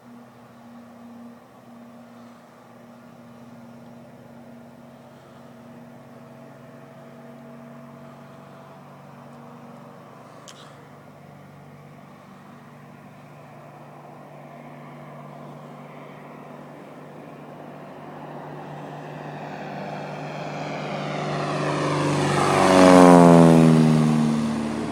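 Douglas Dakota's twin radial piston engines and propellers in a fast, low fly-by: a distant drone that builds slowly, swells to a loud peak about three-quarters of the way through, and drops sharply in pitch as the plane passes.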